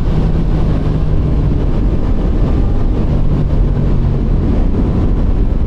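Suzuki GSX-8S's 776 cc parallel-twin engine running under way at a fairly steady pitch, with wind noise over the microphone.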